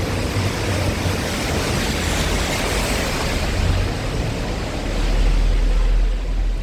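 Steady hiss of rain falling on a city street, with a deep rumble swelling about five seconds in and fading near the end.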